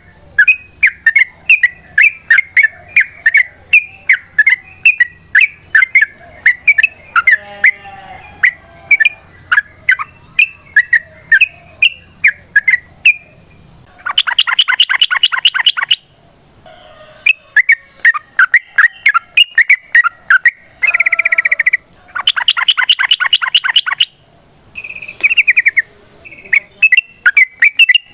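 Yellow-vented bulbul (trucukan) singing a long, rapid run of short chattering whistled notes. Two loud, fast rattling trills come through the middle and again later, and a few falling notes lie between them.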